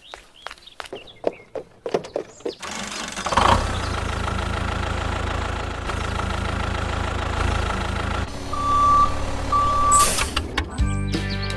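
A few scattered clicks, then about three seconds in a steady engine-like running sound starts up and holds. Near the end come two short beeps, one pitch each.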